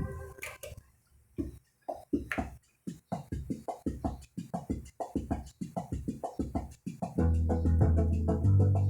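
Yamaha Electone BK-5C electronic organ playing a run of short, plucked-sounding notes, about three a second. About seven seconds in, full sustained chords with a bass line come in.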